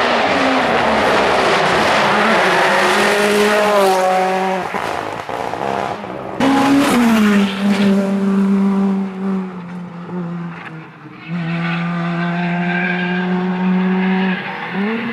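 Rally car engine at full throttle, its pitch climbing and dropping sharply at gear changes and throttle lifts, with tyre noise over it.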